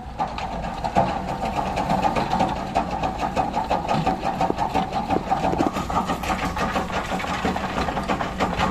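Heavy diesel engine running steadily under load, with a dense rattling clatter over it, getting louder right at the start.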